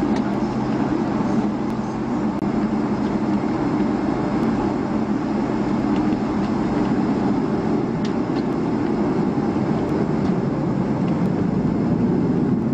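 Steady cabin noise inside a Boeing 757 on the ground after landing: a low, even rumble and hiss from the engines and air system as the aircraft taxis.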